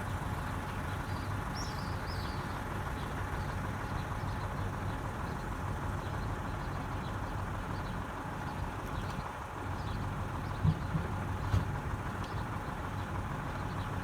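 Truck engine idling steadily with a low hum, most likely the fire engine at the scene. Two short knocks stand out about eleven seconds in.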